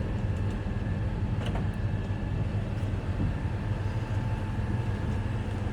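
Kenworth catering truck's diesel engine running steadily with its hydraulic PTO engaged, a low steady rumble with a faint whine over it. A faint click comes about one and a half seconds in.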